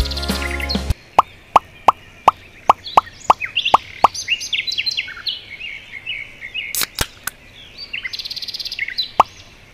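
A rapid run of about nine short rising 'bloop' pop sound effects, roughly three a second, one for each pebble set down, with two more near the end, over a background track of birdsong. A short stretch of music ends about a second in.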